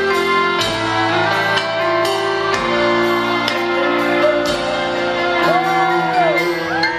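Country band playing an instrumental passage without vocals: held chords, with a few notes bending in pitch in the second half.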